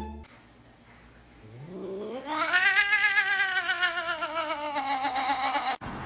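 A domestic cat's long, drawn-out yowl. It rises from a low moan about a second and a half in, then holds a wavering pitch for about three seconds while slowly sinking, and cuts off suddenly near the end.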